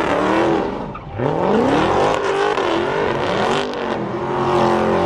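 A car engine revving hard, its pitch climbing and falling several times, then held steadier near the end.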